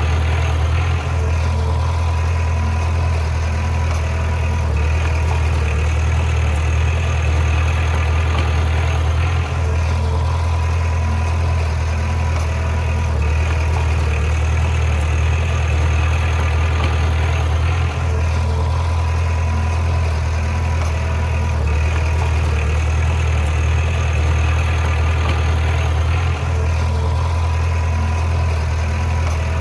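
Heavy diesel engine of earth-moving machinery running steadily with a deep drone, dipping slightly in level about every eight or nine seconds.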